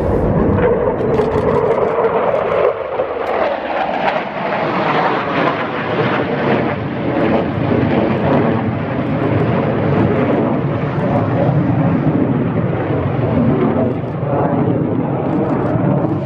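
Aircraft engine noise from a display flypast: a loud, dense, steady sound whose pitch sinks slightly in the first couple of seconds as the aircraft passes.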